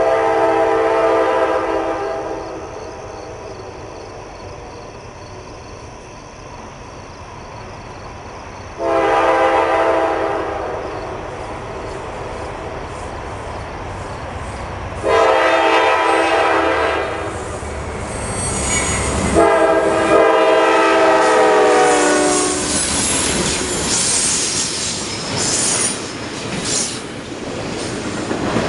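A diesel locomotive's air horn sounds four times as a train approaches, then the train passes close by with wheels clattering over rail joints and squealing.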